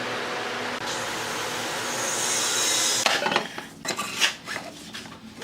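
A woodworking machine running with a steady noise and low hum, which cuts out about three seconds in, followed by a run of irregular knocks and clatter of wood being handled.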